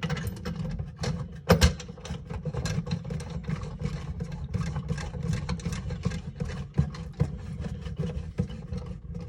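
Hands reconnecting the water supply hose to a Geberit concealed cistern's fill valve: a run of small clicks, scrapes and rattles of the fittings over a steady low rumble, with one sharper knock about a second and a half in.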